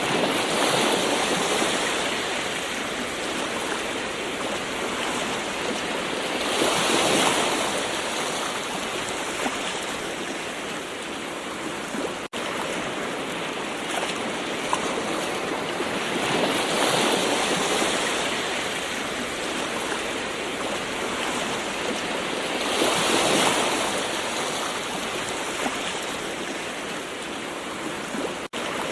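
Gentle ocean waves washing onto the shore in a steady wash of surf. It swells louder four times, about 6 to 10 seconds apart. Twice there is a very brief drop-out in the sound.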